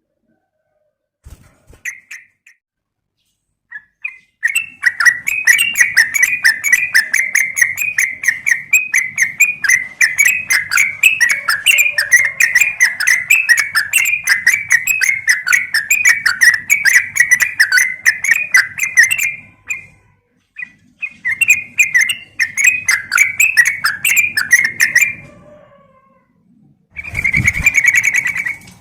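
Trucukan (yellow-vented bulbul) calling: long runs of fast, chattering notes repeated several times a second. The first run starts about four seconds in and lasts some fifteen seconds, then a shorter run follows and a brief burst comes near the end.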